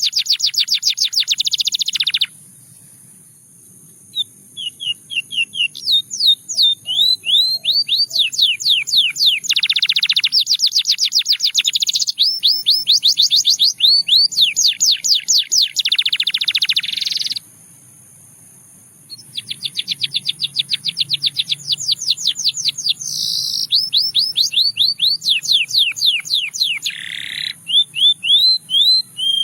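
Russian singing canary singing long trilled phrases of rapidly repeated rising notes, changing from one repeated note type to the next, with two short pauses between phrases.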